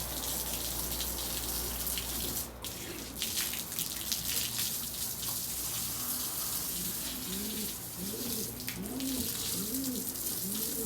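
Water spraying steadily from a hose onto the floor of a pigeon yard. From about six seconds in, pigeons coo repeatedly over it.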